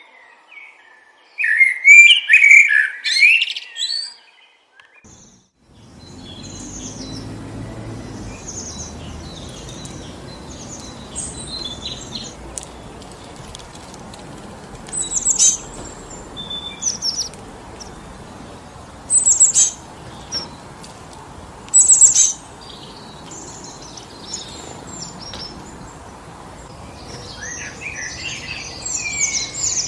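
Songbirds chirping and calling: a burst of rapid chattering calls in the first few seconds, then sharp high chirps now and then. From about six seconds in, steady wind rushes through the trees beneath them, with a last busy flurry of calls near the end.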